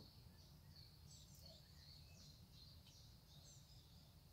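Near silence: faint bird chirps over a low, steady background rumble.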